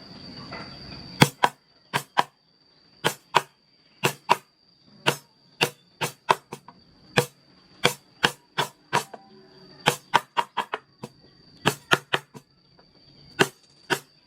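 Mallet tapping a carving chisel into wood: sharp, irregular taps, often in quick pairs or short runs, about two a second.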